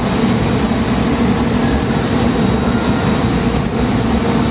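Hurricane simulator booth blowing at full force, a steady loud rush of fan-driven wind buffeting the microphone.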